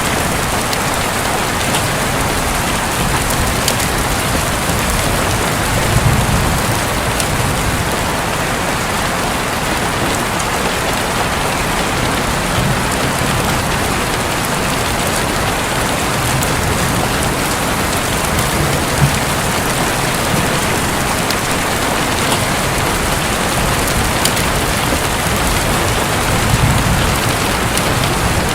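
Steady heavy rain falling on a roof, a dense even patter, with a few brief low swells in the background.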